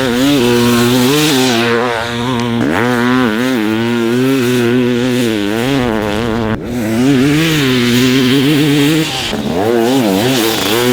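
Modified Honda CR500 500cc two-stroke dirt bike engine being ridden hard, its pitch rising and falling over and over as the throttle is opened and closed. There is a brief break about six and a half seconds in.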